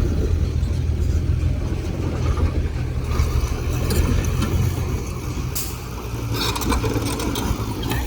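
Heavy diesel earthmoving machinery running with a steady low rumble, with a brief sharp clank about five and a half seconds in.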